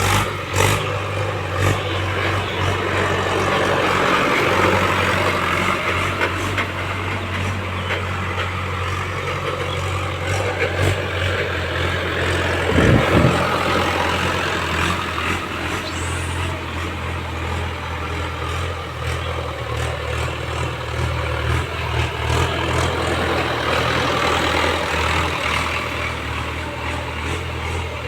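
Mahindra tractor's diesel engine running steadily while it works at paddy threshing, with a single short thump about halfway through.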